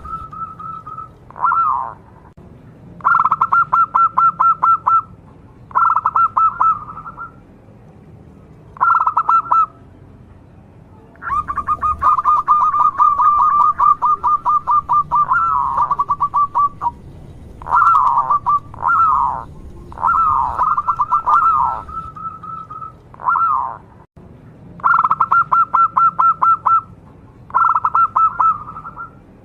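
Zebra dove (local Indonesian perkutut) in full song: bouts of quick, stuttering cooing notes, some under a second and some held for several seconds, broken by short falling notes and brief pauses.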